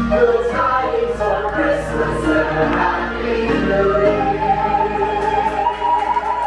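Several voices singing a Christmas song together in chorus over musical accompaniment, with long held notes near the end.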